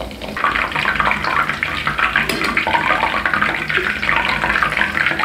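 Batter-coated mushroom fritters sizzling and crackling as they deep-fry in hot oil in a kadhai, a dense steady hiss that starts about half a second in.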